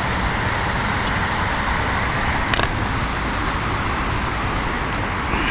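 Steady road noise of a vehicle moving: a continuous, even hiss that does not change.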